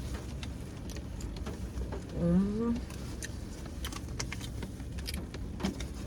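Low steady rumble of an idling car heard from inside the cabin, with scattered small clicks and taps. A little over two seconds in, a short rising hum, a voiced 'mm', is the loudest sound.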